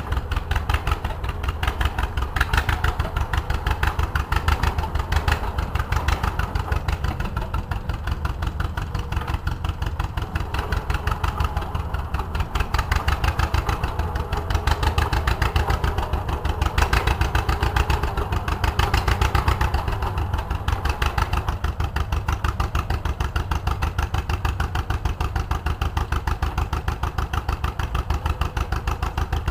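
Homemade tractor's engine running steadily, with an even, rapid firing beat.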